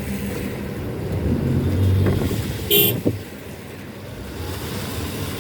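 Car engine and road rumble heard from inside a vehicle in slow traffic, with one short car horn toot about three seconds in.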